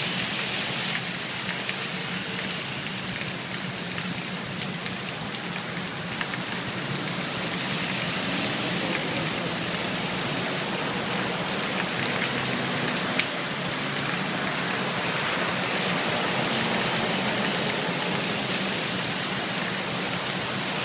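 Steady heavy rain falling and pattering on surfaces, with many small drop ticks and one sharper tick about halfway through.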